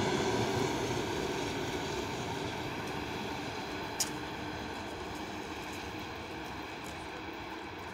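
ER9M electric multiple unit train moving away, its rumble fading steadily. A single sharp click about four seconds in.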